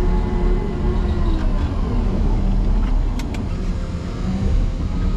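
Motor grader's diesel engine running hard under load as the machine rams a deep snow drift, with a slight dip in pitch in the first second. Two sharp clicks come about three seconds in.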